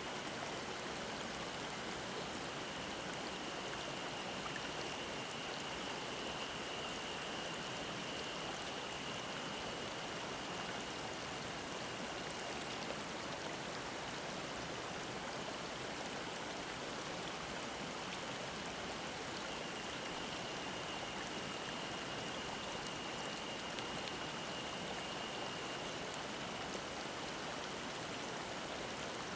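Mountain stream running over rocks, an even rush of water. Above it a cicada keeps up a steady high-pitched drone through the first half, breaks off, and starts again for several seconds later on.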